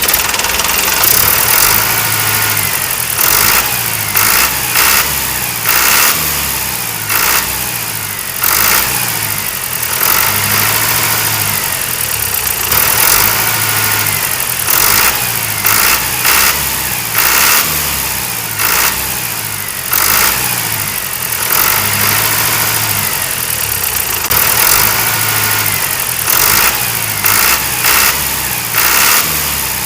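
Mini tractor engine running with uneven revs, its pitch stepping up and down every second or so throughout.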